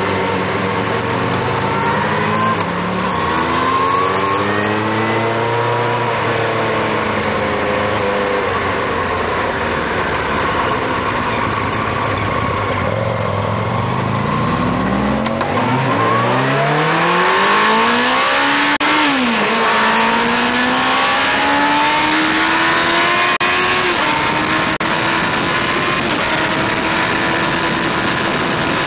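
Onboard sound of a Yamaha R1's inline-four engine with rushing wind. For the first half it runs at modest revs, rising and falling gently; then it accelerates hard, the pitch climbing steeply with an upshift about two-thirds in and another about five seconds later, the wind noise growing with speed.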